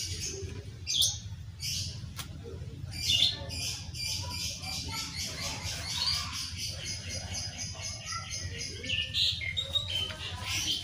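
Small birds chirping and trilling in quick repeated notes, with a steady low hum underneath.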